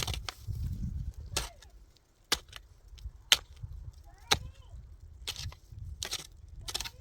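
A series of sharp knocks, about one a second, each short and crisp.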